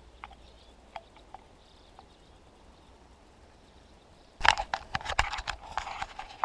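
Metal-detecting gear being handled and packed away: a few faint clicks, then, a little past four seconds in, about two seconds of loud clattering knocks and rustling.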